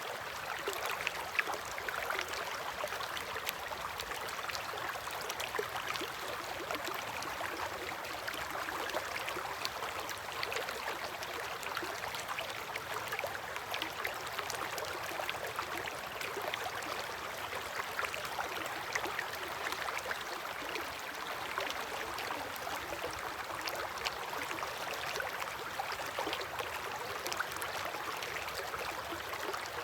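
River water flowing steadily: a constant rush with many small splashes.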